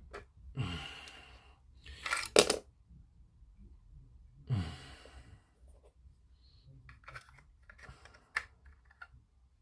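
Small clicks and taps of plastic model-kit parts being handled, with a sharp louder click about two seconds in and a run of lighter clicks near the end. Two breathy sighs come about a second in and again around four and a half seconds.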